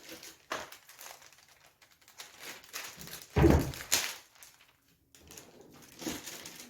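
Handling noises while cleaning: scattered light knocks and rustles, with one loud heavy thump about three and a half seconds in and a sharp click just after it.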